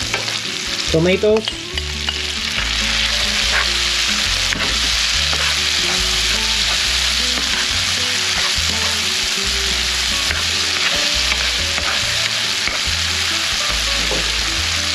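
Sliced onions, garlic and diced tomatoes sizzling in hot oil in a frying pan while being stirred with a spatula. The sizzle grows louder about two seconds in, as the tomatoes go into the pan, and then holds steady.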